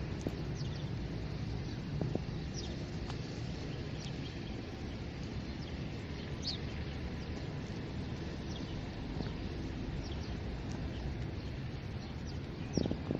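Outdoor countryside ambience: scattered short bird chirps over a steady low rumble.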